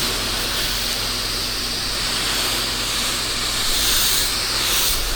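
Spray wand of a pressure-washing rig hissing steadily as algae treatment solution is shot up onto a house wall, with the rig's pump motor humming low underneath. The hiss swells a little around the fourth second.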